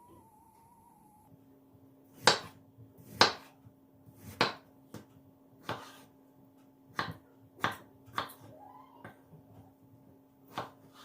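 About ten sharp, irregularly spaced knocks and clicks of kitchen work, such as utensils or dishes being handled, the loudest two about two and three seconds in. A steady low hum starts about a second in.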